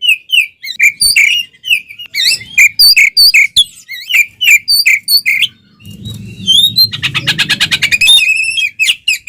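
Oriental magpie-robin (kacer) singing at full voice: a fast series of sharp, sweeping whistled notes, breaking into a rapid even trill about seven seconds in. A low rustling noise sits under the song from about six seconds in.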